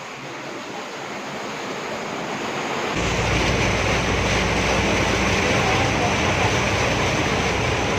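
Steady rushing noise of heavy monsoon rain and wind, growing through the first seconds and jumping louder about three seconds in with a deep rumble.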